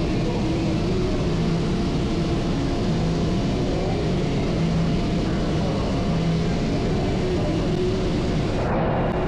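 Mobile crane's diesel engine running steadily under a constant drone, with a brief change in the sound near the end.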